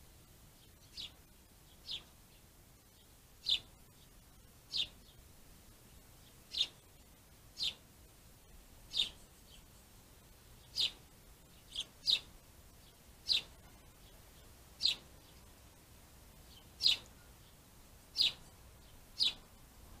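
A bird repeating a single short, high call about fifteen times, at uneven gaps of one to two seconds.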